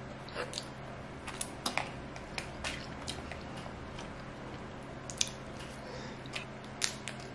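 A person chewing sushi close to the microphone, with scattered small wet clicks and smacks of the mouth, over a faint steady hum.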